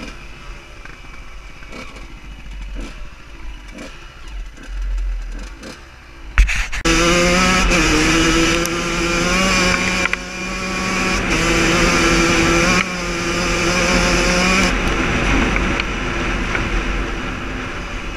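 Dirt bike engine heard from the rider's own machine: low and uneven at first, then, after a sharp knock about six seconds in, a loud, high-revving run whose pitch steps up and down several times before easing off near the end.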